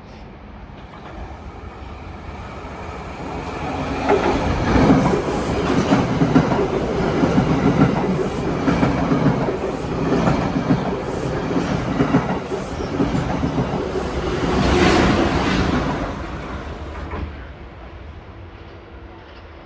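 A Metro-North train passing at speed: it builds as it approaches, runs loud with a rhythmic clickety-clack of wheels over the rail joints, then fades away about seventeen seconds in.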